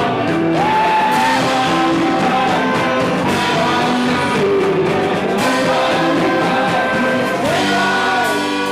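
Live rock band playing, with guitars, drums and a voice singing over them.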